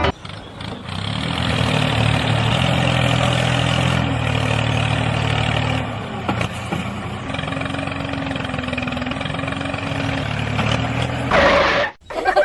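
A motor running steadily, its tone shifting about six seconds in, cutting off shortly before the end.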